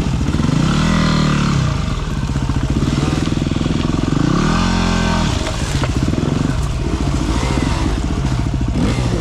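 Dirt bike engine running under way on a trail. Its pitch climbs, drops about two seconds in, climbs again and falls back about five seconds in, then runs lower and steadier.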